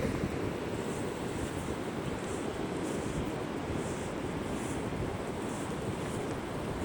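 Strong, steady wind rushing and buffeting over the microphone, a Force 6 wind.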